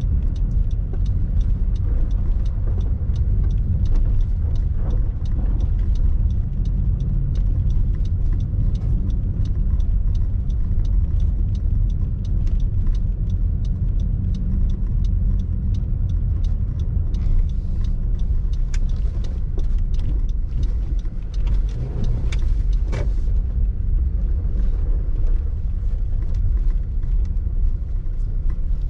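Road noise inside a moving car's cabin: a steady low rumble of the engine and tyres, with scattered faint ticks.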